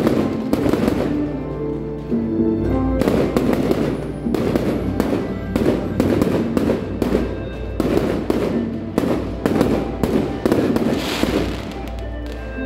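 Fireworks going off in a rapid series of sharp bangs, thickest from about three seconds in, with music playing underneath.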